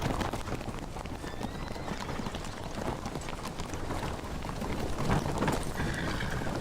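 Hooves of many horses clip-clopping in a continuous, overlapping stream: a mounted column on the move.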